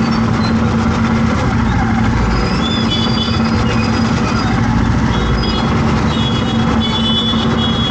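Busy road traffic noise, loud and steady, with a low engine hum that fades out after about a second and a half and comes back near the end, and brief thin high tones scattered through it.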